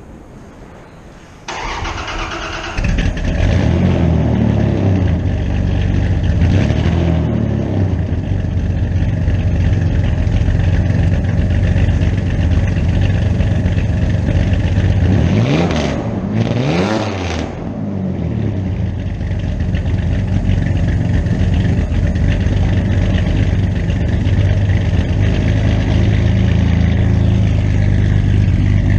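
1992 Dodge Dakota pickup's engine cranked on the starter and catching about three seconds in, then running loud. It is revved briefly, then revved higher about halfway, the pitch rising and falling, before settling to a steady idle.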